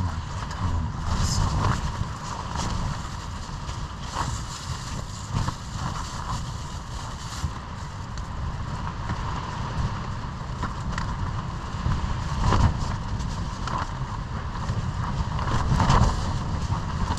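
Strong gusty wind buffeting the microphone as a continuous uneven low rumble, with scattered short knocks and rustles of things being handled.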